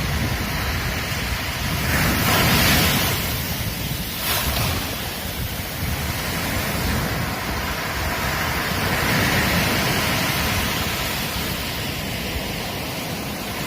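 Ocean waves breaking on a beach, a steady wash of surf that swells and falls, with the loudest wave breaking about two seconds in.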